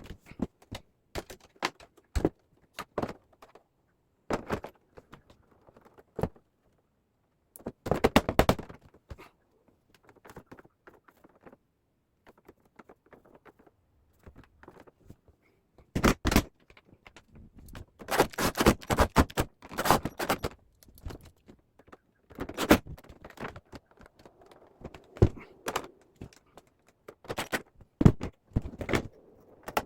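Hard parts being handled: irregular clicks, knocks and short scrapes with quiet gaps between them, densest about eight seconds in, around sixteen to twenty seconds, and near the end.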